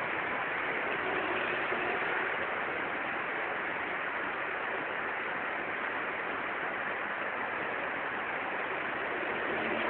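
Steady rain falling on a wet street, an even hiss that does not let up.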